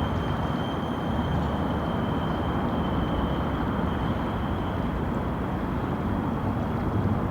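Steady city street ambience: a constant low rumble of traffic, with a thin high-pitched whine held throughout.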